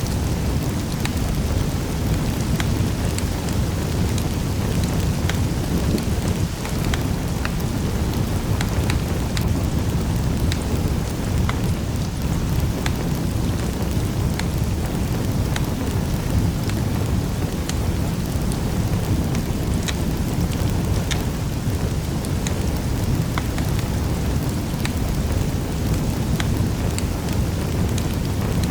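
Wood fire crackling in a fireplace: a steady low rumble of burning with scattered sharp pops and crackles throughout.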